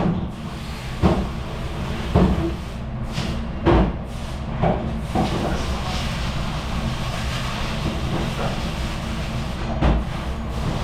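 Busy dish area in a kitchen: a steady machine hum and hiss with dishes and utensils clattering and knocking now and then, about six sharp knocks spread over the stretch.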